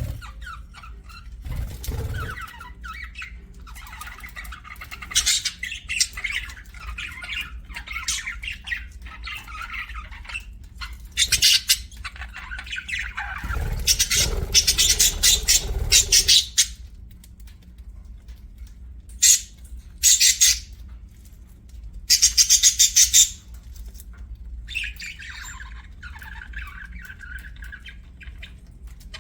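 Budgies (budgerigars) chattering and warbling, with loud harsh squawks breaking in several times, the loudest run about halfway through.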